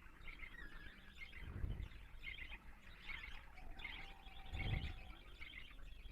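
Lovebirds chirping faintly in short repeated bursts, with two dull low thumps, about a second and a half in and near the five-second mark.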